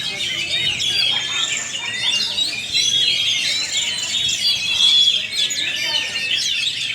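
Many caged oriental magpie-robins singing at once: a dense, unbroken tangle of overlapping whistles, chirps and trills.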